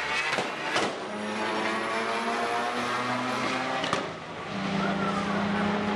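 Street cars in a drag race, their engines running at high revs under full acceleration, with a thin high whistle over the engine sound and two abrupt breaks.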